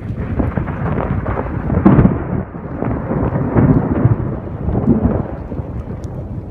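Thunder rumbling in a rainstorm, swelling and fading, loudest about two seconds in, with rain beneath it.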